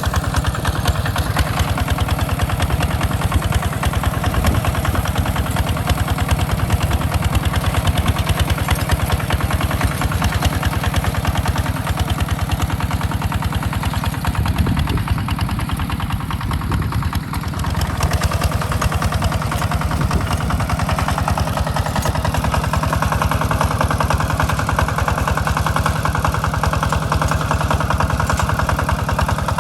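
Small farm tractor's engine running steadily while plowing a rice field, with a brief dip in loudness a little past the middle.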